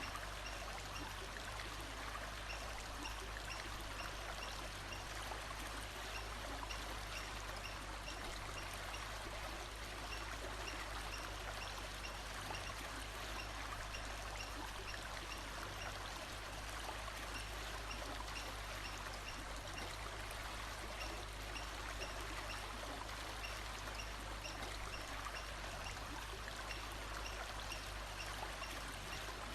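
Steady sound of running water from a stream, trickling and splashing without a break, with a faint short high call repeating every second or two.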